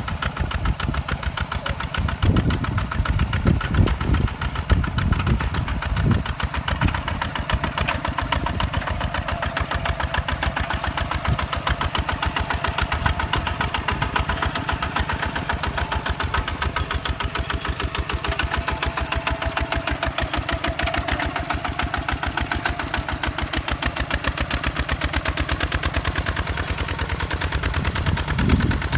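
Two-wheel walking tractor's single-cylinder diesel engine running with a fast, even chugging. There are heavier low thumps in the first few seconds, then it settles into a steady run.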